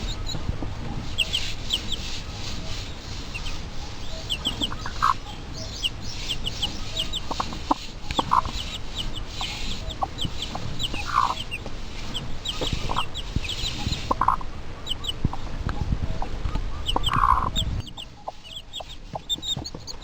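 Chickens clucking every few seconds while small birds chirp repeatedly, over a steady low background noise that drops away near the end.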